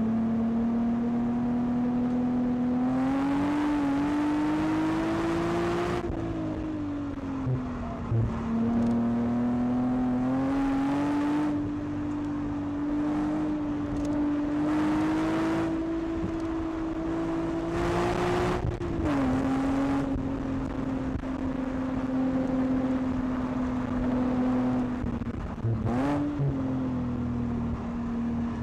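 Nissan 370Z's stock 3.7-litre V6 heard from inside the cabin at track speed. The engine note climbs under throttle and falls away several times, dropping sharply about six and nineteen seconds in, with a short rev blip near the end.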